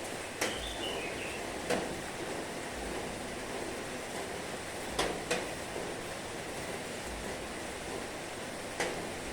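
Heavy rain falling steadily, with a few sharp, louder ticks scattered through it.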